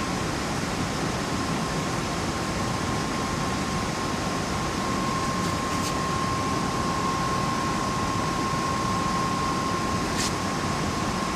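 Steady rushing background noise of a large hangar, with a constant high-pitched hum.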